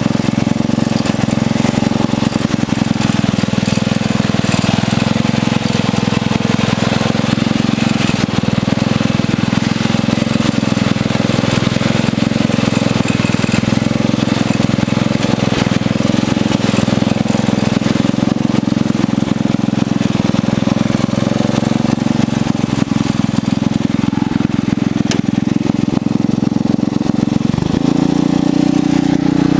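Craftsman lawn tractor's engine running steadily as the tractor is driven, with its note rising near the end.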